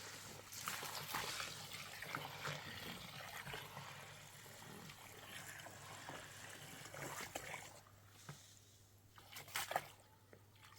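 Water trickling and sloshing with small splashes and knocks, quieter for a moment about eight seconds in.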